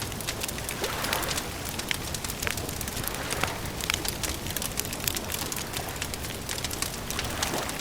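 Wood campfire crackling, with frequent irregular sharp snaps and pops over a steady rushing hiss.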